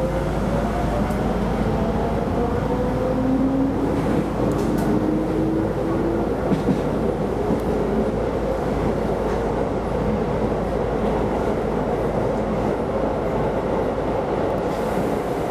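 Keisei Line electric train running, heard from inside the car: a steady rolling rumble with a faint whine that rises slowly in pitch over the first several seconds, and a few wheel clicks.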